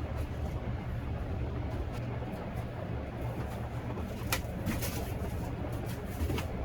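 Steady low hum of food-truck machinery, with a few sharp clicks, the loudest just past the middle.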